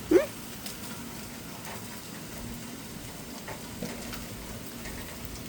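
Steady hiss of rain and food sizzling on a barbecue grill, with faint scattered ticks. Right at the start there is one short, loud yelp that rises in pitch.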